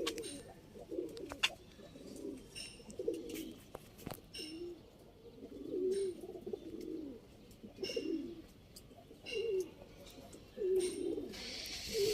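Domestic pigeons cooing: a string of low, wavering coos one after another, with a few light clicks and a short rustle near the end.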